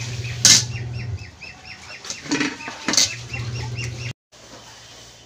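Birds chirping fast in the background, a run of short falling chirps several a second, with a few sharp knocks over them and a low steady hum that drops out about a second in.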